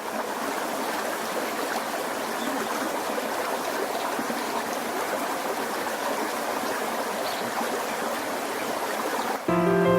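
Mountain stream in a gorge, water running steadily over rocks. Music comes in suddenly just before the end.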